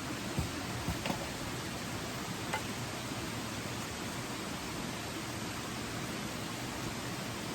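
Steady rushing hiss of outdoor background noise, with a few light knocks or clicks in the first few seconds.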